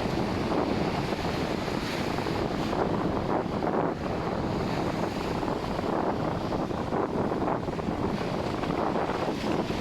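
Ocean surf breaking, with wind blowing across the microphone: a steady rushing noise with no distinct events.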